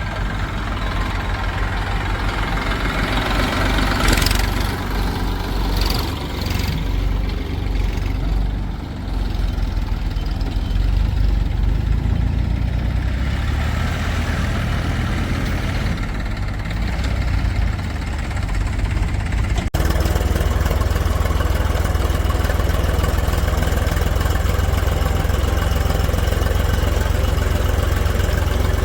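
Diesel engines of heavy machinery running steadily at low speed, with a few knocks about four to seven seconds in. The sound changes abruptly about two-thirds of the way through to a steadier, denser engine rumble.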